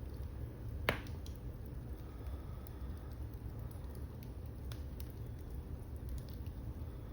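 Wood fire burning in a fireplace: a low steady rumble with scattered crackles and one sharp, louder pop about a second in.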